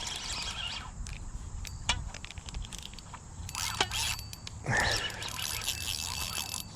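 Spinning fishing reel being cranked while fighting a hooked fish, with scattered clicks and rattles from the reel and rod handling.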